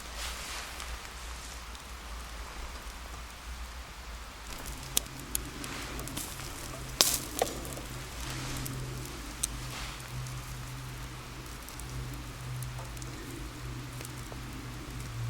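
Campfire burning with a steady hiss and a few sharp crackling pops. A low steady hum comes in about a third of the way through.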